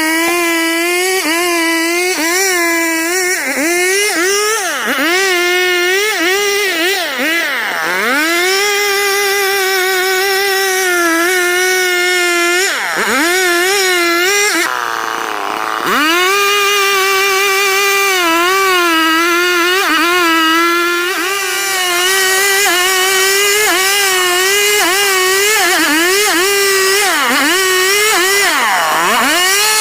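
STIHL two-stroke chainsaw running at high revs, its high engine note dipping and recovering again and again as it pulls down under load in the cut. About halfway through, the revs fall away briefly, then climb back up.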